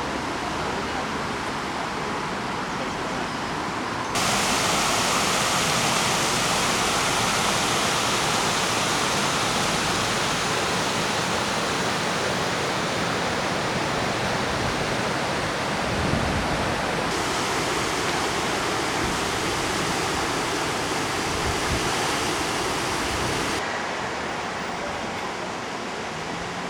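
Fast-flowing floodwater of the swollen River Exe, a steady rushing noise. It grows abruptly louder and brighter about four seconds in and drops back near the end.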